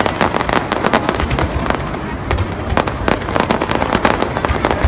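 Fireworks display: a dense, continuous run of sharp cracks and pops, several a second, over a steady low rumble of bursts.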